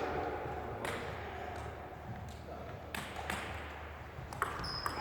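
Table tennis ball clicking off bat and table, a run of sharp hits about every 0.7 s, then two more, with a short high squeak near the end.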